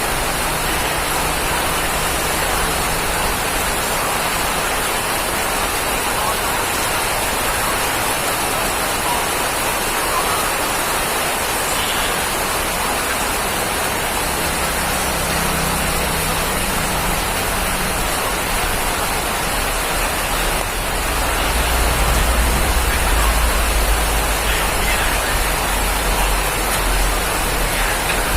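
Steady heavy rain falling, an even hiss of drops. About two-thirds of the way through, a low rumble builds underneath it and makes the whole sound somewhat louder.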